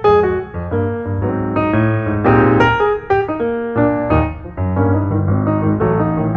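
Background music: a piano playing a melody with a steady bass line.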